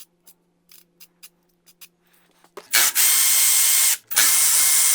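A run of light clicks, then a cordless power tool whirring in two long bursts with a short pause between, spinning nuts off the fan studs of a Ford 300 inline-six engine.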